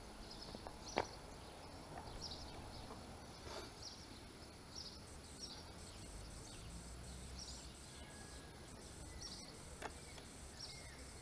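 Faint outdoor ambience with small birds chirping in short, high calls repeated every second or so. A single sharp click sounds about a second in.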